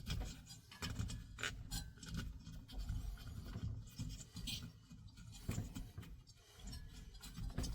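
Hands fitting parts of a diesel heater back together: irregular scraping and rubbing with scattered small clicks and knocks.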